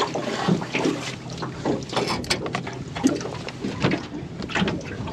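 Irregular clicks and knocks of handling noise aboard a small aluminium tinny.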